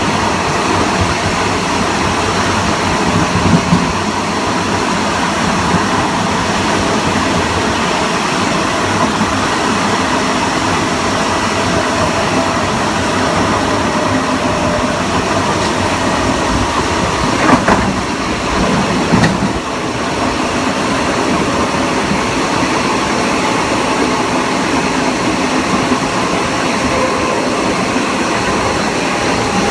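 LIRR Kawasaki M9 electric multiple-unit train running at a steady speed, heard from on board: steady wheel-and-rail rumble with a faint even whine from its Mitsubishi AC traction motors and IGBT-VVVF inverter. A couple of short louder knocks a little past the middle.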